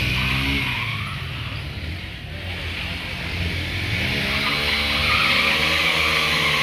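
Stunt motorbike's engine revving with its tyre screeching in a skid, both getting louder about four seconds in.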